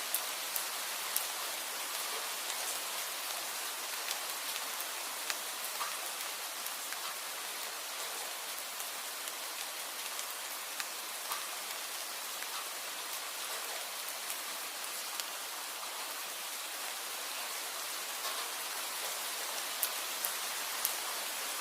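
Steady rain, a continuous even hiss with scattered sharp drips and taps of drops landing on a surface.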